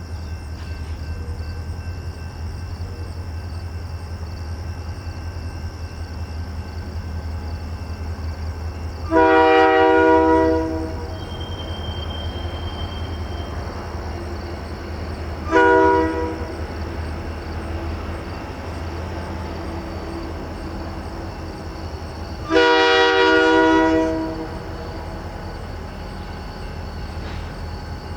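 Diesel freight locomotive's air horn sounding three blasts, long, short, then long, over the steady low rumble of the diesel engine.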